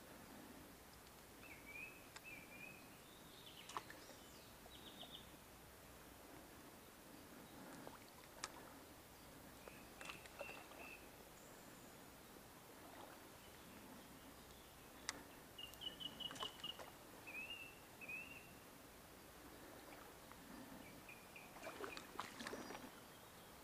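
Faint creekside ambience with short, high bird chirps every few seconds. A few sharp clicks are scattered through it, and a flurry of clicks and rustling comes near the end.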